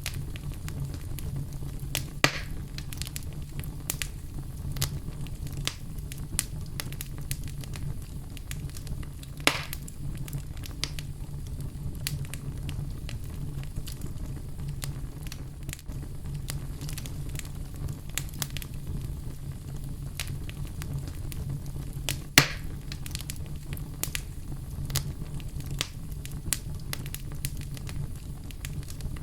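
Wood fire crackling in a fireplace: a steady bed of small crackles and ticks over a low steady background, with a few louder pops about two, nine and twenty-two seconds in.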